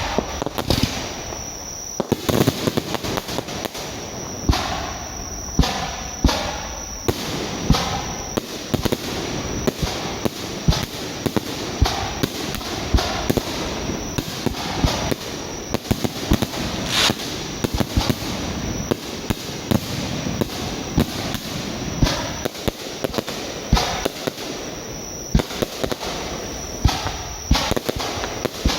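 Fireworks display: a continuous barrage of sharp bangs over a bed of crackling, with several loud reports every second.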